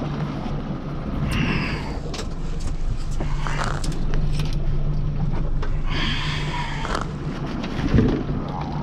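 Boat engine idling steadily, with scattered knocks and clatter from gear being moved aboard.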